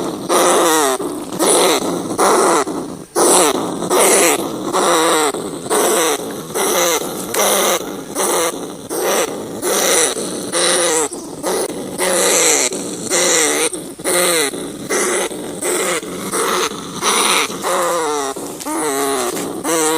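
Rats calling: a rapid series of short, wavering, quavering squealing cries, roughly one to two a second.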